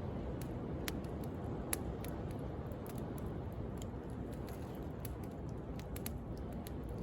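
Wood bonfire crackling, with sharp pops and snaps scattered through, over the steady wash of sea waves.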